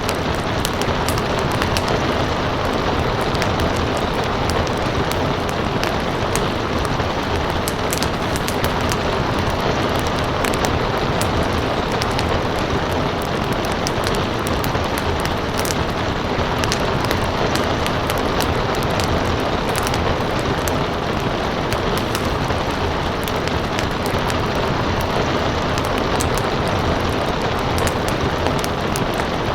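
Steady rain with a fireplace fire crackling over it in frequent sharp pops.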